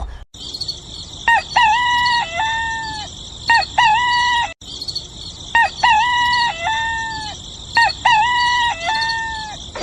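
Rooster crowing four times, each crow about a second long. The same pair of crows is heard twice, cut in sharply like a looped sound clip, over a steady high-pitched hiss.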